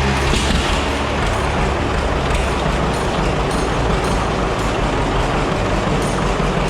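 John Deere 720 diesel tractor's two-cylinder engine running, a loud steady rumble with clatter.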